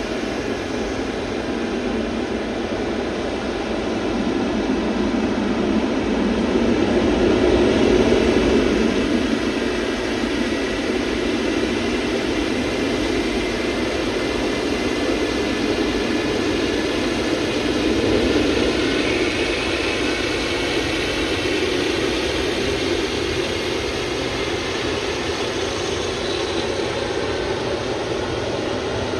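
Jet airliner engines running steadily, a dense rumble with a faint high whine above it. The sound swells a little about a third of the way in and again past the middle.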